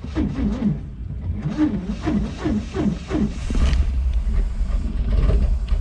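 Rolls-Royce Springfield Phantom I straight-six being cranked over by its starter on a cold start, with the starting carburettor on. A rhythmic cranking pattern runs for about three seconds, then the engine fires and settles into a deeper, steady running rumble.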